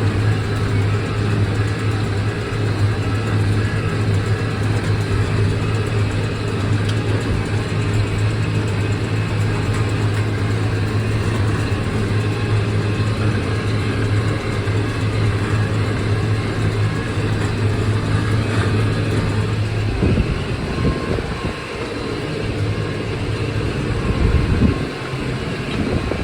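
McCormick MTX 150 tractor's diesel engine running steadily with a constant low hum. About twenty seconds in, the steady note gives way to uneven low rumbling for the last few seconds.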